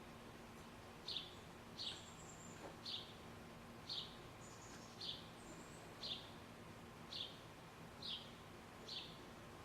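A bird repeating a short, high chirp about once a second, with a few fainter, higher, thin notes from another bird mixed in.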